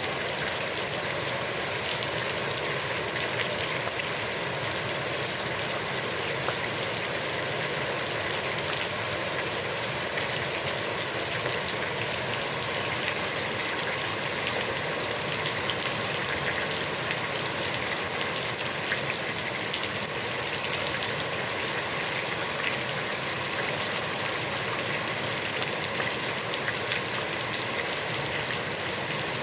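Heavy rain falling steadily on a pond's water surface: a dense, even hiss thick with countless small drop splashes.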